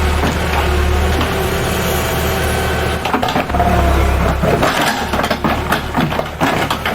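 An engine running steadily, with a run of irregular knocks and clatter in the middle.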